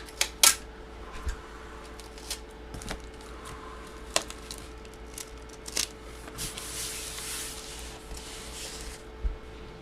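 Light handling noises: scattered clicks and taps, with a longer soft rustle from about six and a half to nine seconds in, over a faint steady hum.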